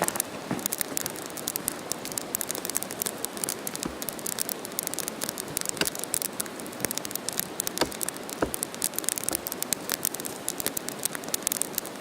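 Small fire of leaves and kindling crackling, with many quick, irregular pops and an occasional louder snap.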